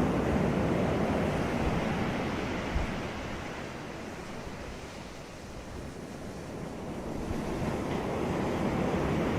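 Sea waves breaking on a beach: a wave's surf washes in, dies back to a softer hiss about halfway through, then the next wave builds up again near the end.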